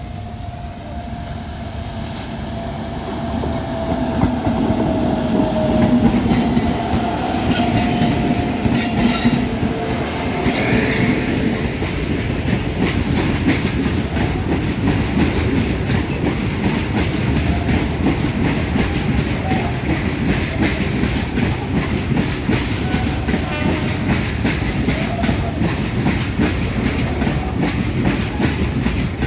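Indian Railways goods train passing close by. It grows louder over the first few seconds, then goes on as a steady rumble with a rapid clickety-clack of wagon wheels over the rail joints.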